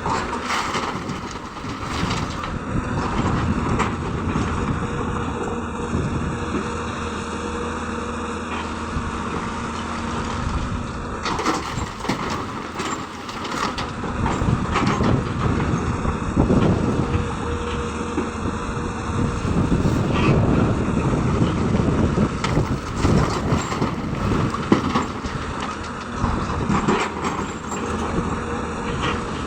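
Hyundai excavator's diesel engine working under load, swelling and easing as the machine works. Scattered knocks and clatters are heard as it loads stone into a dump truck.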